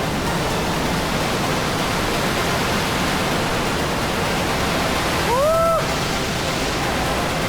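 Steady rushing noise of a waterfall. About five seconds in, one short whistle-like note rises in pitch and then holds briefly over it.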